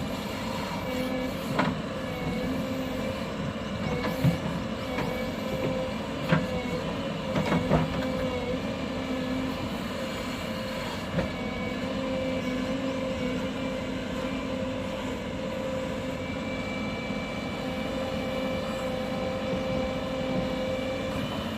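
JCB 3DX backhoe loader's diesel engine running steadily, with several sharp clanks in the first half and one more about eleven seconds in.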